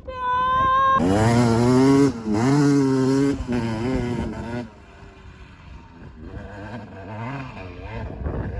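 Dirt bike engine revving hard close by, its pitch rising and dipping with the throttle for a few seconds, then dropping to quieter, uneven running.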